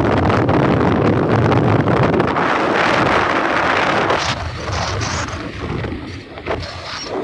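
Wind rushing over the microphone of a moving vehicle, with road noise underneath. The rush swells to its loudest about three to four seconds in, then falls away abruptly.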